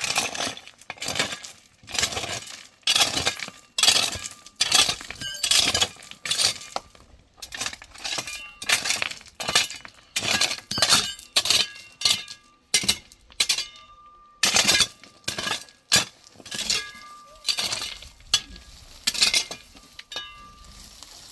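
Steady hammer blows on metal, a little under two a second, each strike ringing briefly.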